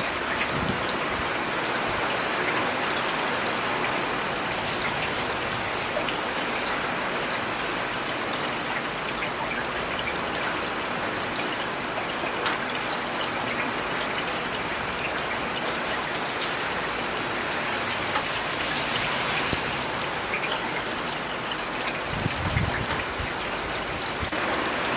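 Steady rain falling, a dense hiss with many single drops ticking through it. A brief low rumble comes in near the end.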